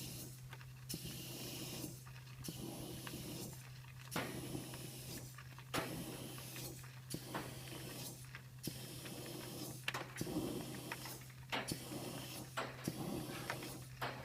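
Air hissing through a plugged dryer vent as it is blown clean, over a steady low hum. The hiss drops out briefly about every second and a half.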